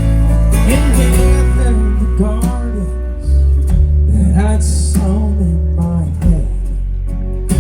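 Live band music: strummed acoustic guitar over drums and a heavy low end, with a melody line bending up and down in pitch.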